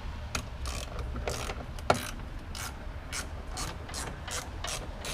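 Hand socket ratchet clicking in short repeated strokes, about three clicks a second in the second half, with one sharper click about two seconds in.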